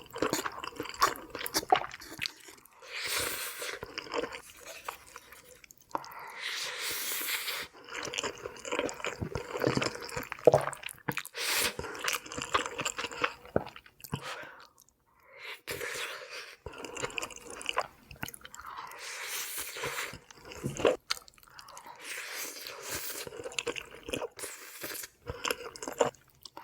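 Close-up eating sounds of pasta being chewed: wet mouth noises and smacking clicks, in irregular stretches with short pauses.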